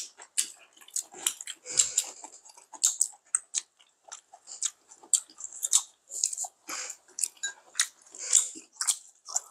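Chewing and biting close to a clip-on microphone, with an irregular run of small clicks and taps as chopsticks pick food from the dishes.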